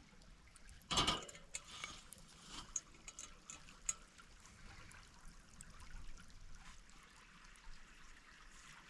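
Stream water trickling steadily, with a sharp clack about a second in and scattered small clicks and ticks from something being handled.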